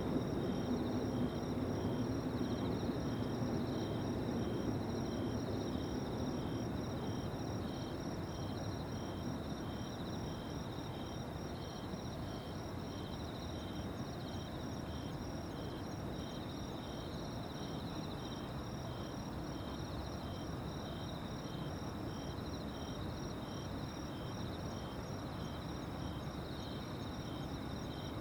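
Several insects calling steadily in overlapping high trills, one of them pulsing about once a second, over a low rumble that fades over the first several seconds.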